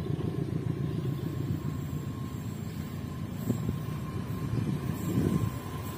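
Diesel passenger train approaching along the rails: a steady low rumble, with a thin high ringing tone from the rails that sets in about a second and a half in.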